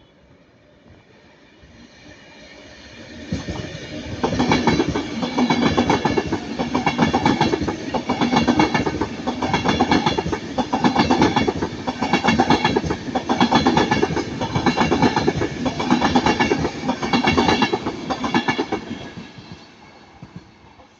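Transport for Wales Class 197 diesel multiple unit passing close by. It builds as it approaches, then its wheels clatter over the rail joints in a steady rhythm for about fifteen seconds, and the sound fades away near the end.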